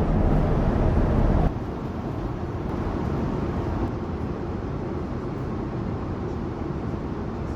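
Steady airliner cabin noise aboard a Boeing 787-9, a low rumble of rushing air and engines. About a second and a half in it drops abruptly to a quieter, thinner version of the same steady noise.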